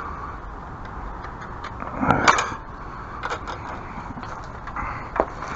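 Hand tool clicking and clattering on a fastener that keeps turning and will not tighten down. There is a louder clatter about two seconds in and a sharp click near the end.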